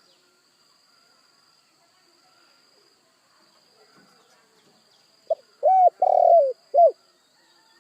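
Spotted dove cooing: after a few quiet seconds, one phrase of four low coo notes, a short one, then a longer one, a longest third note that drops at its end, and a short last note.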